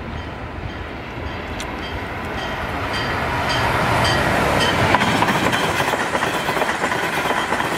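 Amtrak Acela Express high-speed electric trainset approaching and passing at speed. Its rush of noise builds to a peak about five seconds in, with quick clicking from the wheels on the rails.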